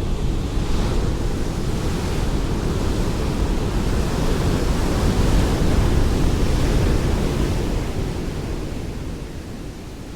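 Ocean waves breaking and washing on a shore, one broad swell of surf that builds through the middle and eases off near the end.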